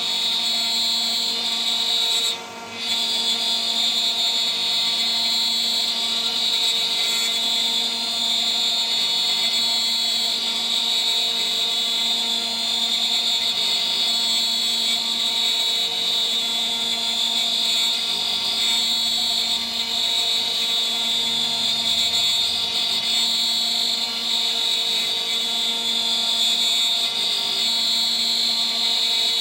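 DIY CNC router spindle at 14,000 rpm, driving a 3 mm three-flute end mill through a milling pass: a steady high-pitched whine that briefly dips about two and a half seconds in.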